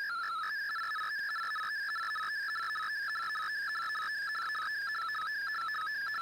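MFSK digital text signal from a shortwave broadcast, coming out of a shortwave receiver: a steady warble of tones hopping quickly among a few pitches, several steps a second.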